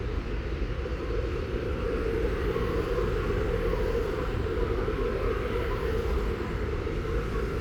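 Steady low rumble and hiss of outdoor background noise, unchanging throughout, with no distinct splashes or calls standing out.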